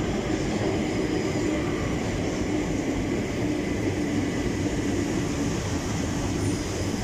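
Southeastern electric multiple-unit train moving along the platform: a steady rumble of wheels on rails with a faint hum from the train's traction equipment.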